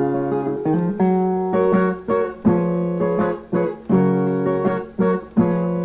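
Brazilian viola, a ten-string steel-strung guitar, strummed in a steady rhythm of repeated chords, an instrumental passage between sung verses.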